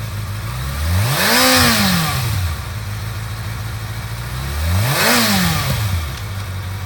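2012 Kawasaki ZX-6R's 600cc fuel-injected inline-four idling and revved twice by the throttle. The revs rise and fall smoothly about a second in and again around five seconds in, dropping back to idle each time.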